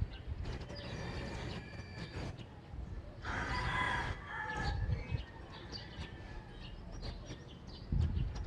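A rooster crowing once, about three seconds in, over morning neighbourhood ambience of faint small-bird chirps and a low rumble.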